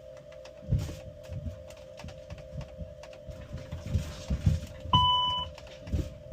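Steady electrical hum with one short electronic beep about five seconds in, over scattered low knocks and thumps.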